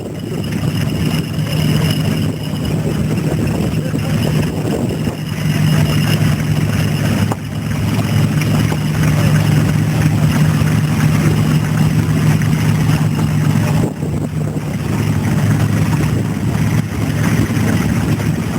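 Vintage stationary engines running steadily, a continuous low engine drone.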